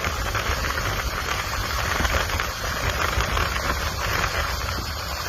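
Strong wind buffeting the microphone: a steady low rumble under an even rushing hiss, with no voices.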